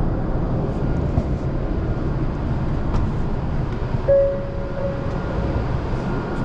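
Shinkansen bullet train running noise: a steady low rumble, with a short fading tone about four seconds in.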